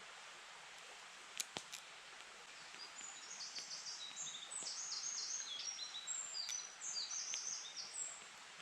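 A songbird sings a rapid run of short, high chirping notes for about five seconds. A few sharp clicks come shortly before it.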